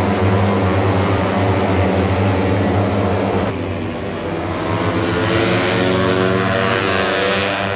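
Superbike engines running, a loud steady engine drone whose pitch shifts slowly as revs change. The sound changes abruptly about three and a half seconds in.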